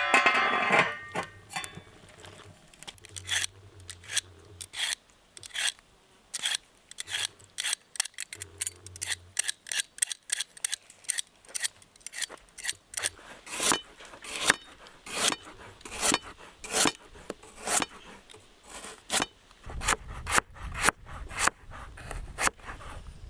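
A vegetable being grated by hand, a run of short rasping strokes about two a second that grow quicker and more regular toward the end. A brief rush of noise opens it.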